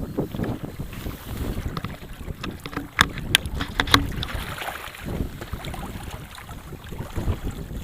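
Wind buffeting the microphone on an inflatable boat at anchor, with water moving against the hull, and three or four sharp knocks a little before the middle.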